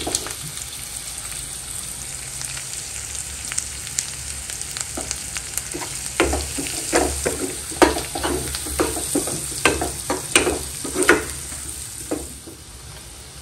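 Onion, garlic and coriander sizzling steadily in hot oil in a kadhai as turmeric goes in. A spoon scrapes and taps against the pan again and again through the middle stretch. The sizzle quietens near the end.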